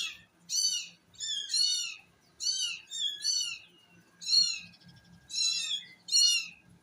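Kitten meowing repeatedly: about nine short, high-pitched meows, each rising and falling in pitch, with brief pauses between them.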